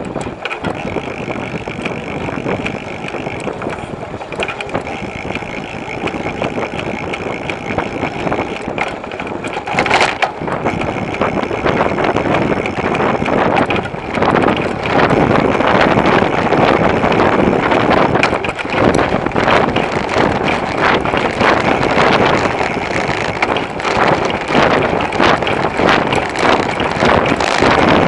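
Wind rushing over a bicycle-mounted camera's microphone, with tyre and road noise, getting louder from about halfway through.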